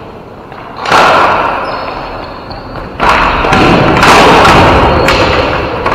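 Ball hockey play in an indoor rink: two loud thuds, about a second in and again three seconds in, each echoing on through the hall, with more knocks near the end.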